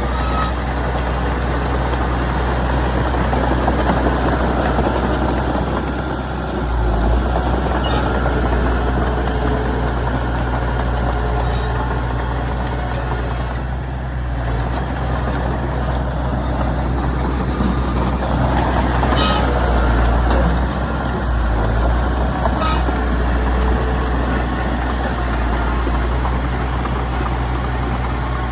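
Heavy diesel earthmoving machinery running steadily, with a few sharp clanks along the way.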